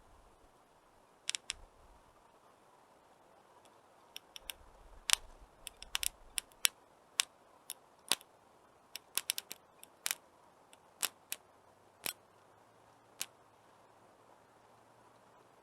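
Wood fire crackling: irregular sharp pops and snaps, some in quick clusters, over a faint steady hiss.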